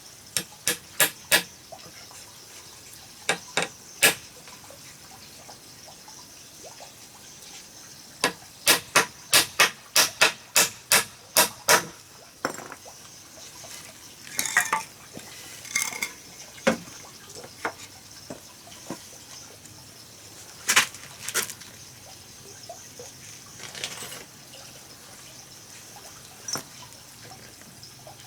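Sharp knocks in runs, the longest about ten strikes at two to three a second, then scattered single knocks, some briefly ringing, over a steady high hiss.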